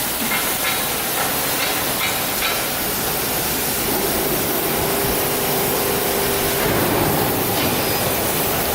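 Steady hissing noise of running workshop machinery, with a faint low hum joining for a few seconds in the middle.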